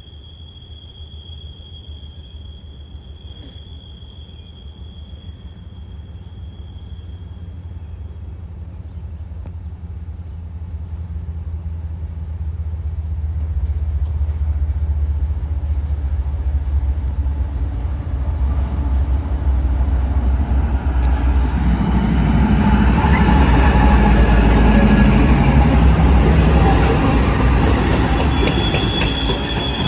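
CSX empty coal train approaching westbound, its diesel locomotives making a low rumble that builds steadily and grows loud about two-thirds of the way through as the train draws close.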